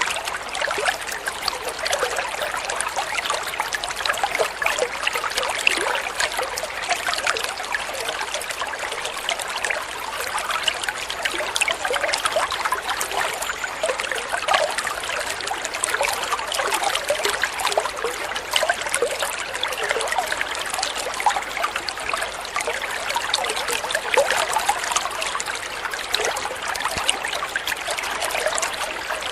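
Water flowing and trickling steadily, a dense patter of small splashes with little low rumble.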